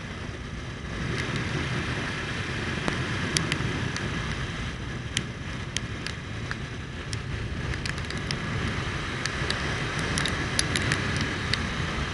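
Motorcycle riding at speed: steady engine rumble and wind noise, with scattered sharp ticks of raindrops starting to strike the microphone. The ticks come more often in the second half.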